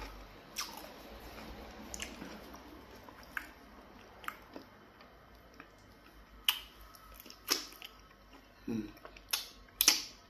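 Close-miked chewing and wet mouth smacks of pounded yam fufu with black soup, eaten by hand, with scattered sharp clicks and smacks, the loudest near the end.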